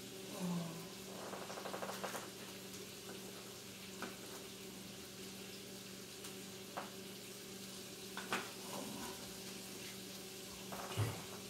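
Chicken frying in grease in a skillet: a faint, steady sizzle, with a few light knocks scattered through it.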